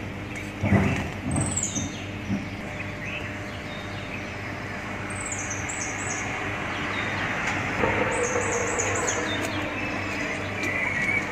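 Small birds chirping, with several quick runs of high, falling chirps, over a steady low machine hum. There are a few soft knocks in the first second or so.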